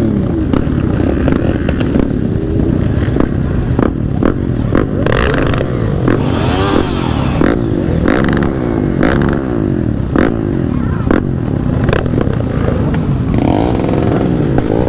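Motorcycle engine running under way, its revs rising and falling again and again with throttle and gear changes, under heavy wind noise.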